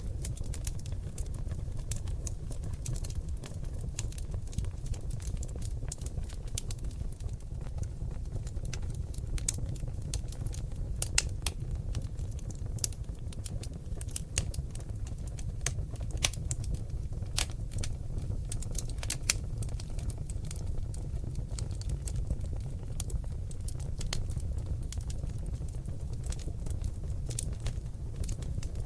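Wood fire in a fireplace, seasoned oak logs crackling and popping: many sharp, irregular pops and clicks over a steady low noise from the flames.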